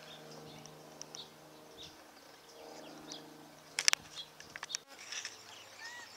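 Quiet outdoor ambience with scattered short bird chirps over a steady low hum that fades out. A sharp click comes about four seconds in. Near the end, clearer arched bird calls repeat.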